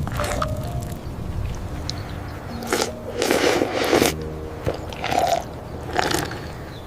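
A few crunching noises: the longest lasts about a second and a half, about three seconds in, followed by two short ones about two and three seconds later.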